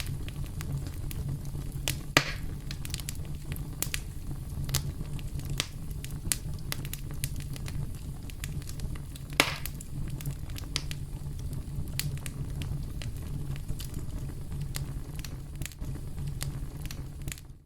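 Campfire crackling: a steady low rumble of burning wood with frequent sharp snaps and pops, two louder pops at about two seconds and nine seconds in.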